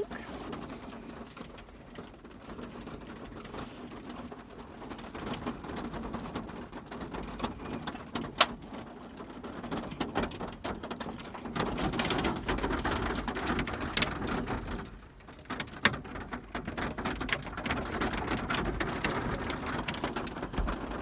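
Hail and rain hitting the car's roof and windows, heard from inside the car: a dense patter with sharp separate hits. It grows heavier about twelve seconds in, eases briefly, then comes on heavy again.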